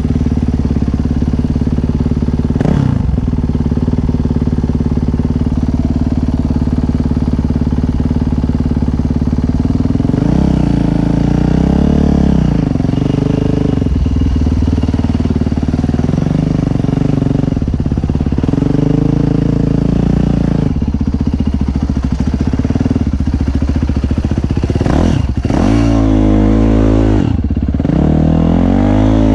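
Dirt bike engine running steadily and revved up and back down several times, most strongly near the end.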